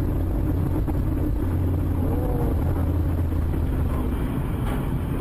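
Steady low rumble of a car's engine and tyres while driving.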